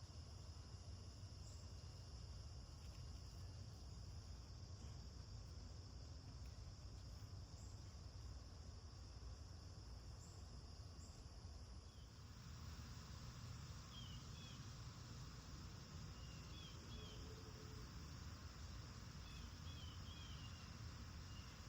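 Faint cicada chorus: a steady high drone, over a low even rumble. From about halfway, a bird gives short chirps, often in pairs, several times.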